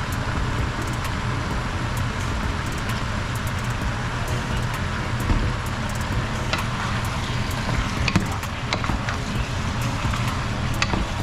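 Chicken pieces sizzling in hot oil in a pan, a steady hiss over a steady low hum, with a few light clicks of a utensil against the pan in the second half.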